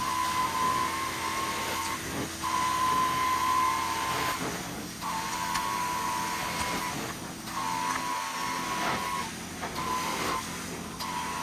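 Carpet-cleaning extraction wand worked in repeated strokes: a whistling suction tone that sounds for about two seconds at a time and cuts out briefly between strokes, six times, over the steady drone of the vacuum.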